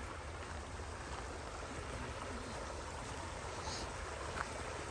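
Small woodland stream running steadily, a continuous trickling wash of water, over a low steady rumble.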